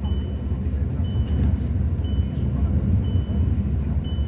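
Steady low drone of a car driving, heard inside the cabin, with a short high beep repeating about once a second.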